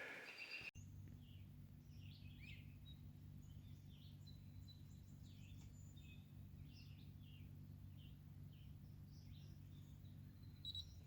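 Faint, scattered bird chirps over a low steady hum, close to silence.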